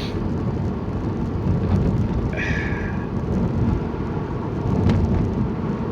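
Steady low rumble of road and engine noise inside a moving car's cabin. A short higher-pitched sound comes about halfway through, and a single click comes near the end.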